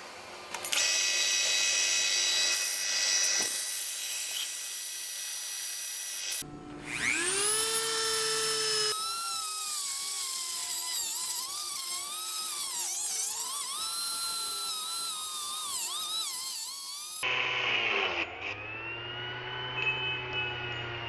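Drill press spinning a homemade sanding drum in several short takes. The motor's whine spins up, then its pitch sags and recovers again and again as work is pressed against the sandpaper and loads the spindle.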